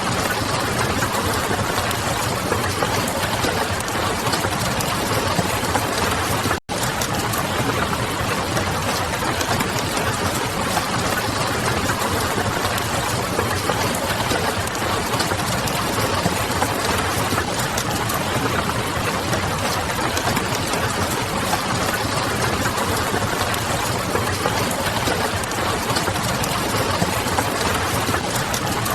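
Steady rain mixed with the crackle of a wood fire, an even, dense hiss with faint scattered ticks. The sound cuts out for a split second about six and a half seconds in, then carries on unchanged.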